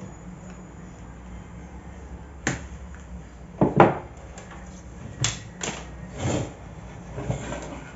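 A series of sharp plastic knocks and clacks from a car's exterior mirror housing being handled and worked apart, the loudest two in quick succession near the middle.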